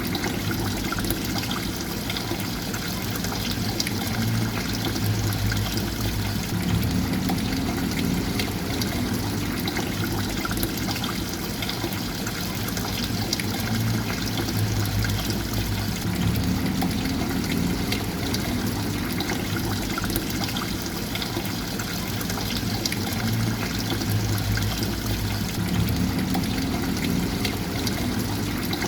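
Water trickling and splashing continuously, with a low gurgle that swells and repeats about every nine to ten seconds.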